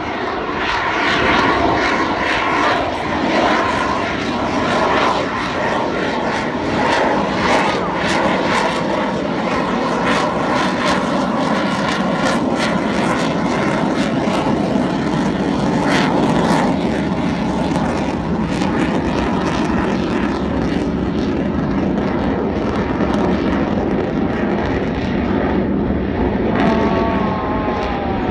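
Fixed-wing display aircraft flying past, their engines making a loud, steady rushing noise with crackle. A falling-pitch whine is heard near the start and again near the end as aircraft pass.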